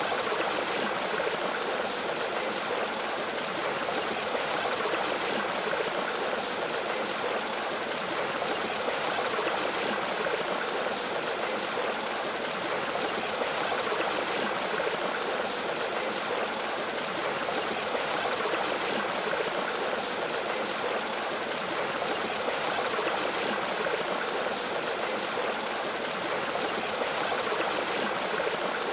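Mountain stream flowing over rocks and a small waterfall: a steady, unbroken rush of water with gurgling.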